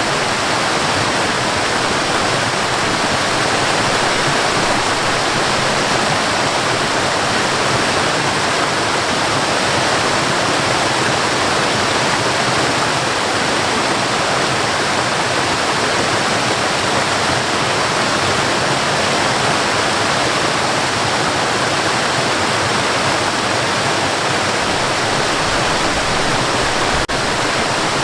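Waterfall: a steady, even rush of falling water, with a momentary dip in level about a second before the end.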